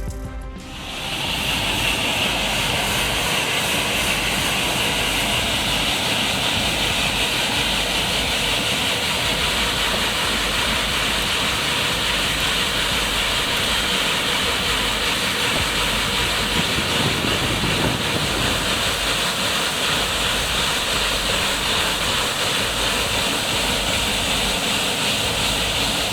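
Large diamond-tipped saw blade cutting through stone, a steady high hiss that starts about a second in and holds without a break.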